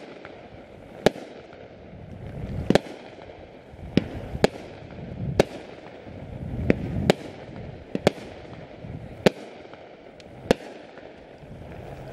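Fireworks cooking off on a burning barge: about ten sharp bangs at irregular intervals, roughly one a second, with a low rumble between them.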